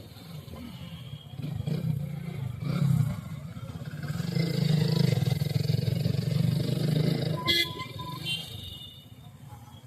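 Motorcycle engine running under way, its sound swelling to its loudest a few seconds in and dropping away near the end. Two short high beeps come in near the end.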